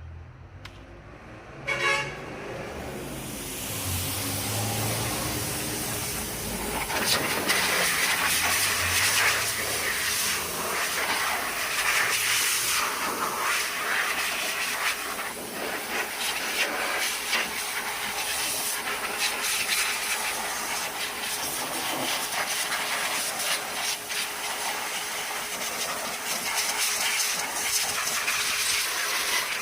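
Hissing of a pressurized cleaning jet on an engine bay. It starts with a click about two seconds in, grows louder a few seconds later and goes on with a wavering level.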